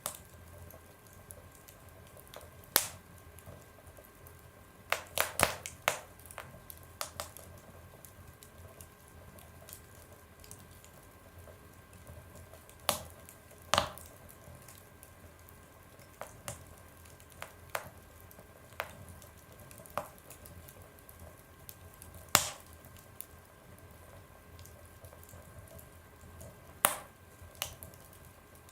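Fire in an oven crackling, with sharp pops at irregular intervals over a faint steady hiss; a quick run of pops comes about five seconds in.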